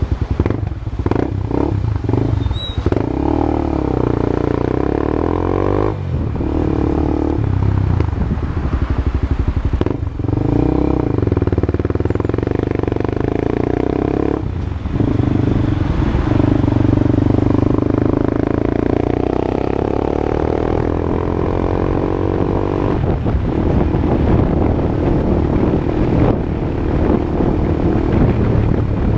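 Honda Twister motorcycle engine with an aftermarket exhaust being ridden. It accelerates through the gears, with the engine note rising and then dropping at each shift, four times.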